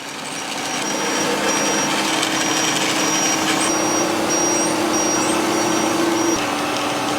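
Factory machinery running with a steady hum, and a short high-pitched beep repeating about twice a second that stops near the end.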